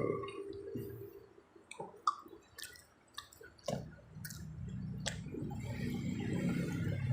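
Close-miked chewing while eating pizza: scattered wet clicks and smacks of the mouth. A low steady hum comes in about four seconds in.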